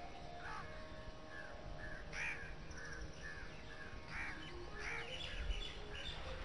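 Birds calling: a string of short, repeated calls, about two a second, fairly faint over a light background hiss.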